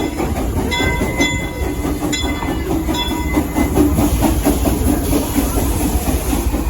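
Steam train rolling along the track, its cars rumbling with a steady clickety-clack of wheels over rail joints. Short high metallic ringing tones recur through the first half.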